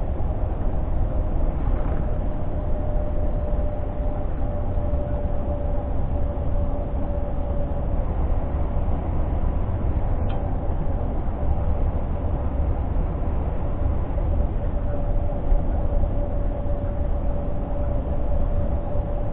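Scania G460 truck's six-cylinder diesel engine running under way, heard from inside the cab: a steady low rumble with road noise and a steady whine over it. A faint click about halfway through.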